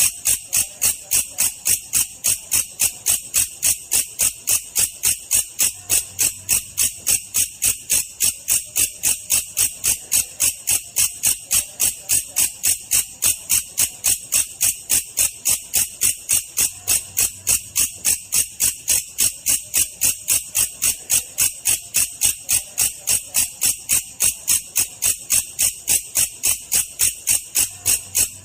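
Belalang kecek katydid calling in a slowed-down recording: a steady, even train of high-pitched chirps, about three a second, without a break.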